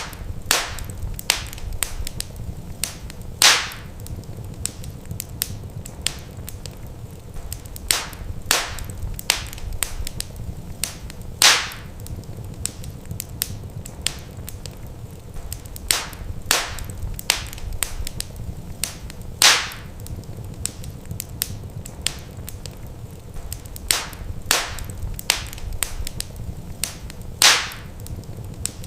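Wood fire crackling in a fireplace: a constant scatter of small snaps with louder pops about every eight seconds, over a low steady rumble of the burning.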